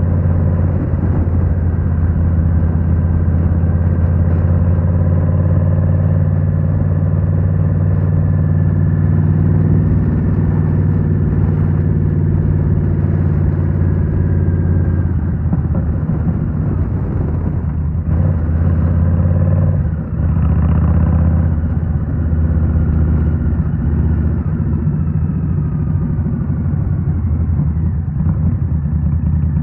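Indian Scout Rogue's 69 cu-in V-twin running through Rinehart slip-on mufflers while riding, mostly steady. About twenty seconds in there is a brief dip in the engine note before it picks up again.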